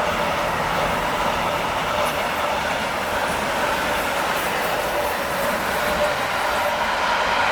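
Train running past: a steady noise of wheels on rails, with a few faint steady tones over it.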